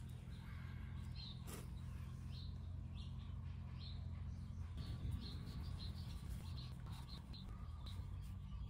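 Small birds chirping repeatedly over a low steady hum.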